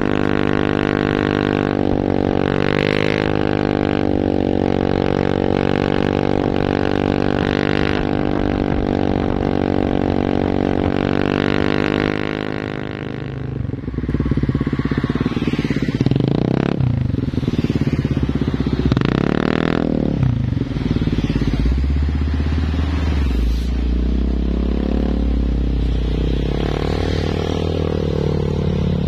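Vehicle engines on a road: a steady deep engine note for the first dozen seconds, then engine revving that rises and falls twice, with a low steady drone in the last third.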